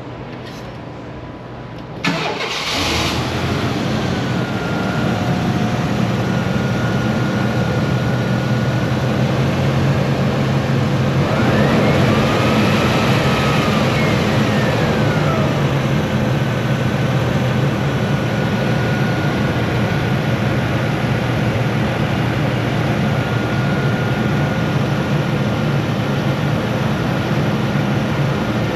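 A 1995 Chevy S10's 4.3 V6 cranks and catches about two seconds in, then idles steadily. A faint high whine sits over it, and a brief rising-and-falling whine comes about halfway through.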